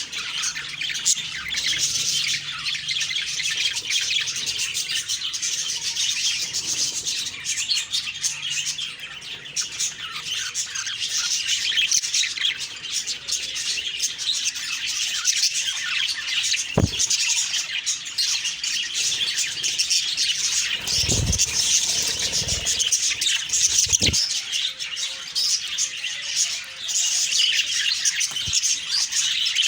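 Budgerigars (pet parakeets) chattering and chirping together in a continuous, busy stream of warbles and squawks. A few short thumps stand out about two-thirds of the way in.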